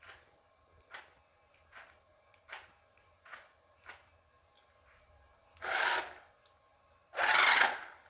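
Hand scraping or rasping strokes on a surface: six light, short strokes at a steady rhythm, then two longer, much louder rasping strokes near the end.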